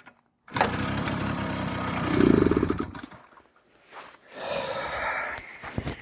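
1987 Tunturi Super Sport moped's two-stroke engine starting cold at −8 °C. It fires suddenly, runs for about two seconds, swells louder and then dies away. A second, shorter burst of running follows about four seconds in.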